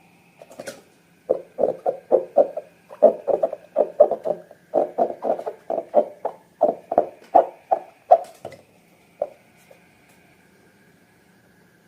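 Slime being squeezed and kneaded by hand, a run of squelches about three a second that stops about eight and a half seconds in.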